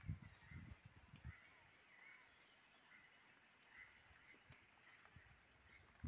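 Near silence: faint distant bird chirps over a steady high-pitched whine, with a few soft low thumps in the first second.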